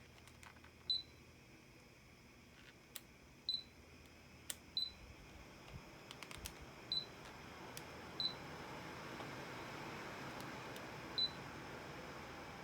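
Sanyo SAP-252WR air conditioner indoor unit giving six short high beeps, spaced irregularly, as it acknowledges remote-control commands. Sharp clicks sound in between, and a faint rush of airflow grows louder in the second half.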